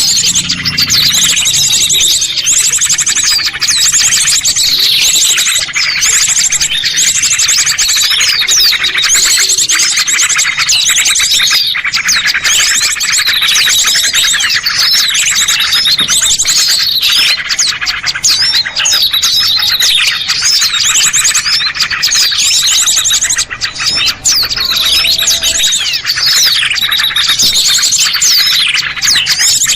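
Dense, continuous chorus of many small songbirds chirping and trilling at once, with fast repeated notes and quick downward-sweeping calls, a recording used as a lure to attract small birds.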